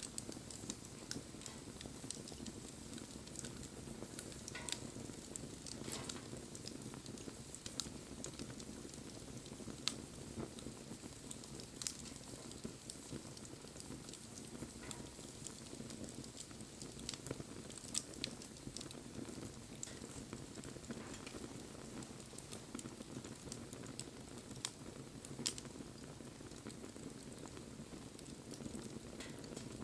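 Wood bonfire burning: a steady low rustle of flames with irregular sharp crackles and pops from the wood, a few of them louder than the rest.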